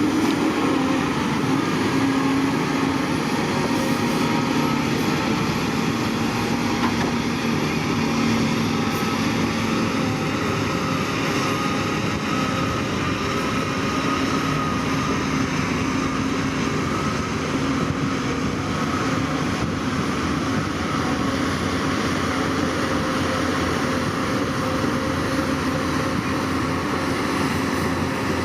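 Heavy diesel earthmoving machinery running steadily, with an engine drone that holds at a constant level.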